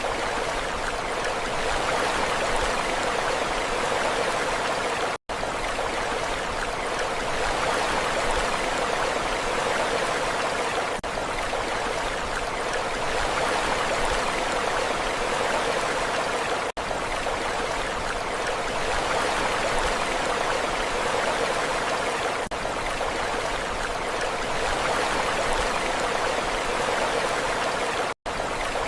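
Steady rushing water, an even hiss with no rise and fall of waves, cut by a split-second dropout about five seconds in and again near the end.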